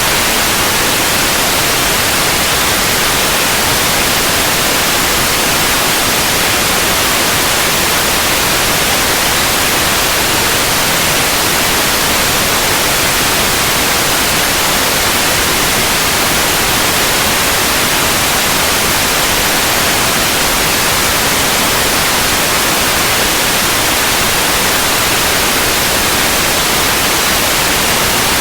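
Steady white noise: an even, loud hiss, strongest in the high range, with no change or break.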